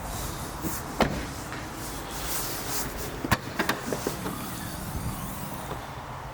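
Car being handled at close range: a sharp click about a second in, then a quick run of clicks and knocks a little past three seconds, over a low steady rumble.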